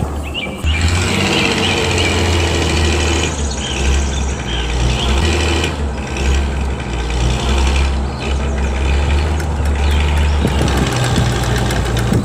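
A vehicle engine running steadily with a low hum, starting about half a second in.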